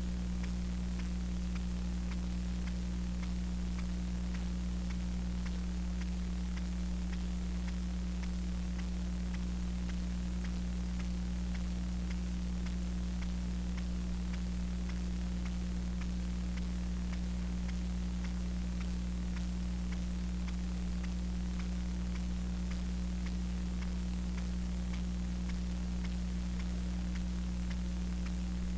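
Steady electrical hum with hiss and faint scattered ticks, with no speech: background noise of the lecture recording's audio chain.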